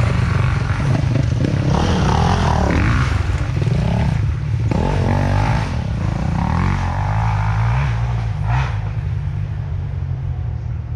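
Trail dirt bikes' engines revving, several at once, their pitch rising and falling as the throttle opens and closes. The sound eases off a little near the end.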